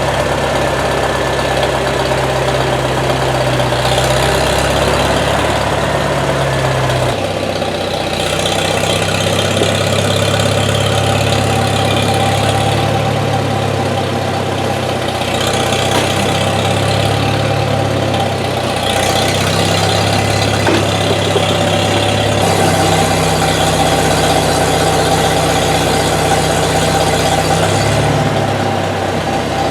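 A motor vehicle's engine running steadily, its low hum changing abruptly every few seconds.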